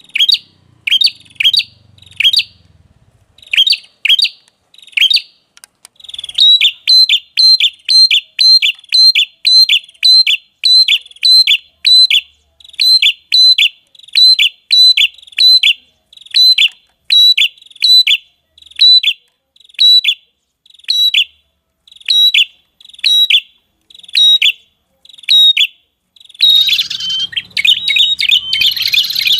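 Lure recording of a red-headed prenjak calling: a long series of sharp, short notes that fall in pitch, repeated about two a second, turning into a denser, continuous chattering song near the end.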